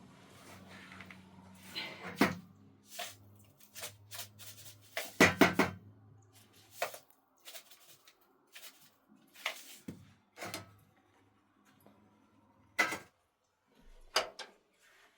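Irregular knocks, clicks and clatter of objects being handled and set down, loudest about two seconds in, around five seconds in, and near the end, over a faint low hum that stops shortly before the last knock.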